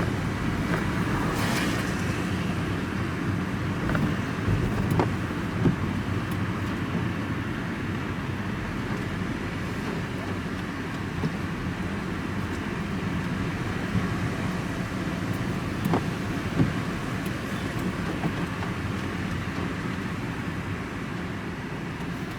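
Steady engine and road noise heard from inside a moving vehicle's cab, with a few short clicks.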